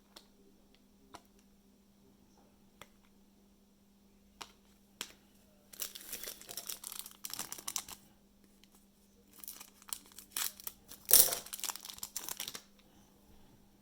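Plastic trading-card pack wrappers crinkling as packs are torn open. A few light clicks come first, then two spells of crinkling, the second louder.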